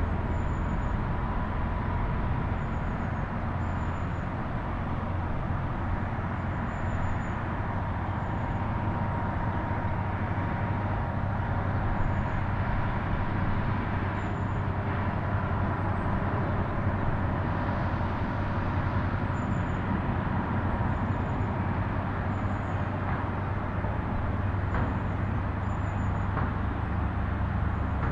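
Steady road traffic noise, a continuous rumble with a faint high chirp now and then.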